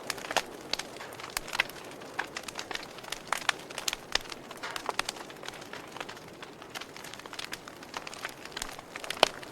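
Wood campfire crackling: irregular sharp pops and snaps over a soft steady hiss, with one louder pop near the end.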